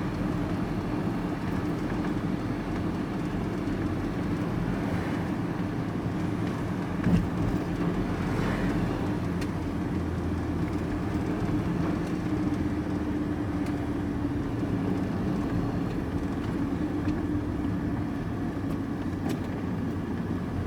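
Steady engine and road noise heard inside a moving vehicle's cabin, with a single brief knock about seven seconds in.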